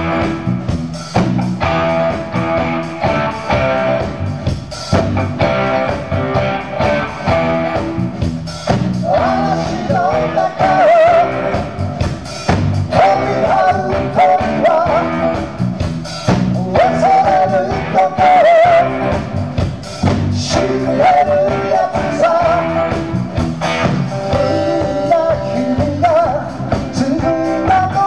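Rock-and-roll band playing live: electric guitars, bass and drums at full volume, with a wavering lead melody coming in about nine seconds in.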